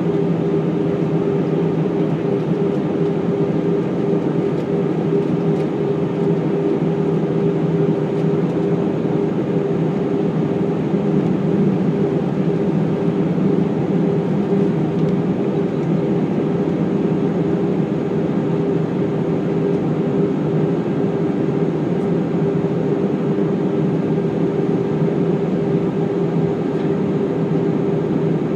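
Airbus A319 in flight heard from inside the cabin: steady engine and airflow noise, a constant hum with two low steady tones running through it.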